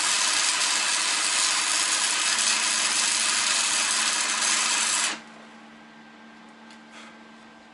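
Angle grinder running on steel with a steady hiss, then stopping abruptly about five seconds in.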